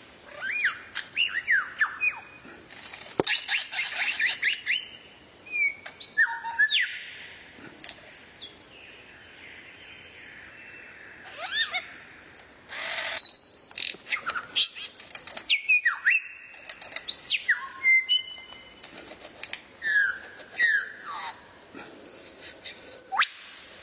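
A songbird singing a fast, varied song of sharp falling whistles, chirps and quick runs of notes, mixed with a few harsh, rasping notes.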